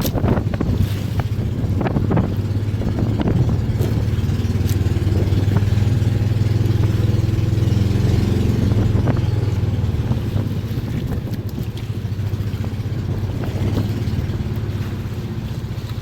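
Boat engine running steadily with a low hum, swelling a little in the middle and easing toward the end, with a few sharp clicks over it in the first half.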